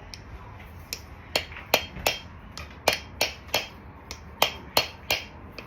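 A hammer tapping a new camshaft into the cylinder head of a Yamaha Zuma 125 scooter engine: about a dozen sharp taps, two or three a second, starting about a second in, seating the cam flat in its bearings.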